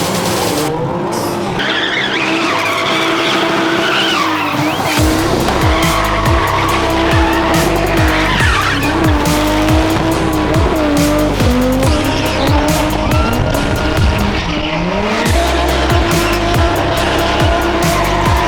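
Spin car doing continuous doughnuts, its tyres squealing in long wavering screeches as the engine is held at high revs. Background music with a steady beat joins about five seconds in.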